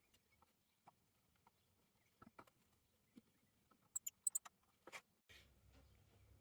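Near silence broken by faint scattered clicks. About four seconds in comes a quick run of sharp, louder clicks, then a single knock, and after that a faint steady low hum.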